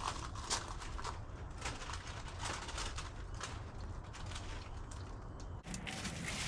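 Irregular rustling and light clicks and knocks of rubbish being picked up and cleared out of a car's interior.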